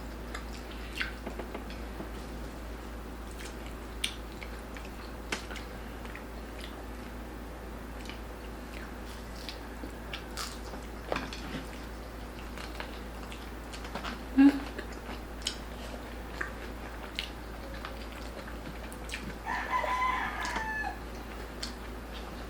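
Chewing and crunching of crispy roast pork belly skin, with scattered crisp bites and cutlery clicks and one short closed-mouth "mm" partway through. About 20 seconds in, a rooster crows for over a second in the background.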